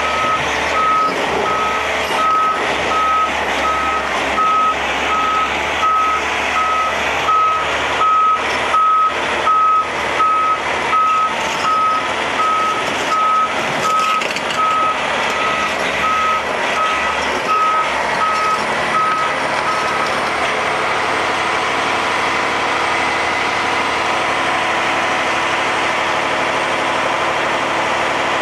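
Truck's reversing alarm beeping at an even pace over its running engine; the beeping stops about two-thirds of the way through while the engine keeps running steadily.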